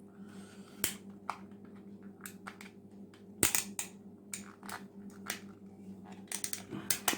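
Plastic snap-fit clips of a Braun Silk-épil epilator's housing clicking and cracking as the casing is pried apart: scattered sharp clicks, the loudest about three and a half seconds in and a quick cluster near the end. A faint steady hum runs underneath.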